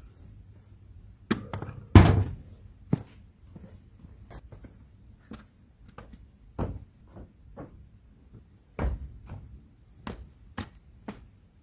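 A series of irregular wooden knocks and thuds, the heaviest about two seconds in, as wood is struck and handled.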